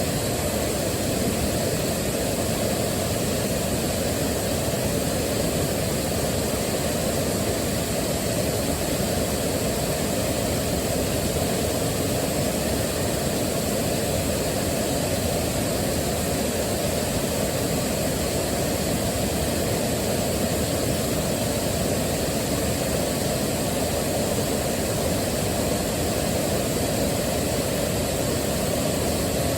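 Waterfall rushing steadily: an even, unbroken roar of falling water, heaviest in its low-to-middle range with a softer hiss above.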